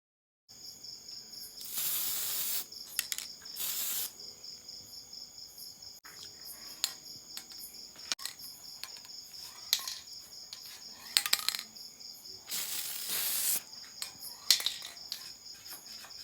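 Insects chirping steadily in a fast, even high-pitched trill. About a second-long burst of hiss breaks in near 2 s, 4 s and 13 s, with scattered sharp clicks in between.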